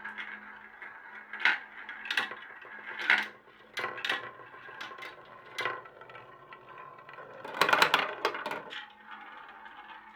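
Marbles rolling down a marble run: a steady rolling rumble, with sharp clicks every second or so as marbles hit the track and drop. A quick clatter of many clicks comes about eight seconds in.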